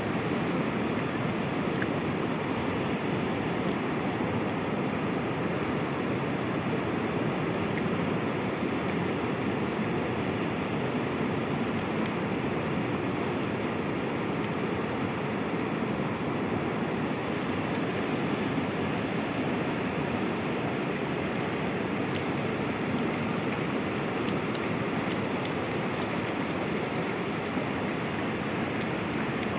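Sea surf: a steady wash of breaking waves, an even rush of noise without clear swells or pauses.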